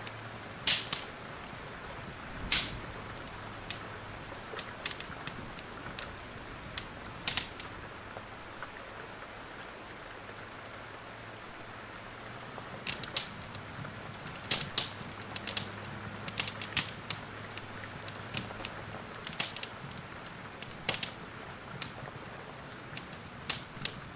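Wood fire in a fireplace crackling, with irregular sharp pops, some in quick clusters, over a steady hiss of rain.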